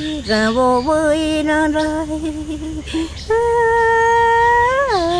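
A woman's voice singing a slow melody of held, slightly wavering notes, gliding from one pitch to the next; a long held note about three seconds in slides down near the end.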